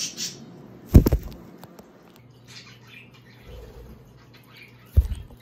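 Two sharp thumps of a bird landing on the camera, about a second in and again near the end, the first the loudest. A bit of bird chatter at the start and faint chirps come between them.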